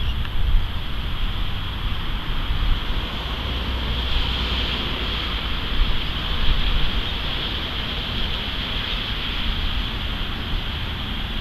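Wind buffeting the microphone as a low, uneven rumble over a steady high hiss of ocean surf.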